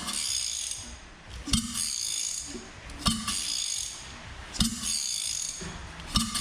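Freshly rebuilt Mazda RX-7 rotary engine being turned over by hand to check compression: a sharp click about every second and a half, each followed by about a second of hissing. The owner takes this as plenty of compression.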